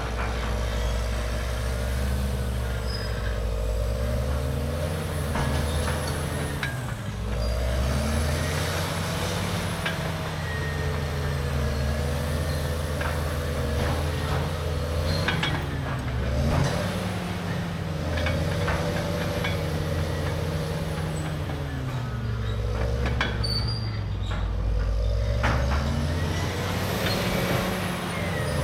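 CAT D6R dozer's C9 diesel engine working under load: its pitch sags and recovers again and again, every few seconds, as the machine pushes. Scattered sharp clanks and cracks sound over it.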